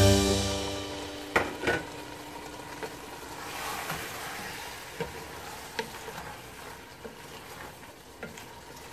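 Diced potatoes and fenugreek leaves sizzling softly in a pressure-cooker pot while a spatula stirs them, with a couple of sharp knocks about a second and a half in and light taps and scrapes against the pot after that. A tail of background music dies away at the very start.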